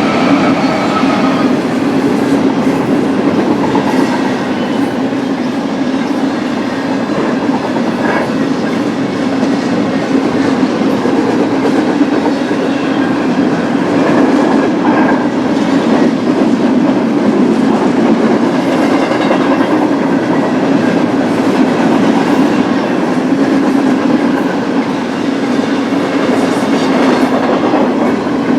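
BNSF double-stack intermodal freight train rolling steadily past, its car wheels clacking over the rail joints under a continuous rumble, with a few scattered clanks.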